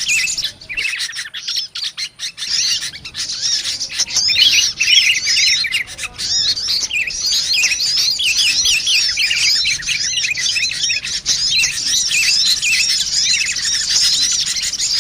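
A dense chorus of rapid, high chirps and twitters from many small birds, a bird-lure recording that mixes sunbirds with sooty-headed bulbuls. The chirping is broken by short gaps for the first two seconds or so, then runs thick and unbroken.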